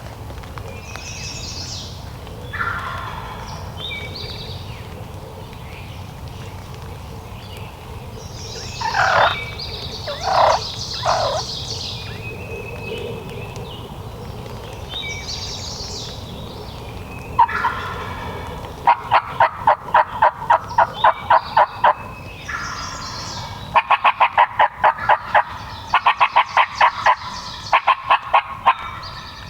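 Wild turkey gobbling, with small birds chirping around it. Two long runs of evenly spaced turkey yelps, about three or four notes a second, come in the second half.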